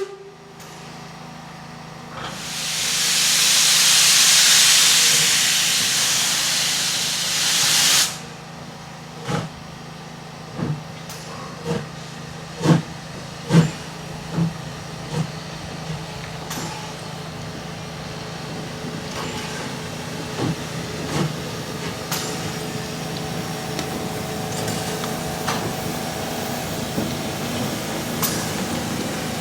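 Steam locomotive SJ 1916 starting away: a loud hiss of released steam lasting about six seconds, then single exhaust beats about a second apart that come gradually faster, giving way to the steadier running sound of the train with occasional clicks.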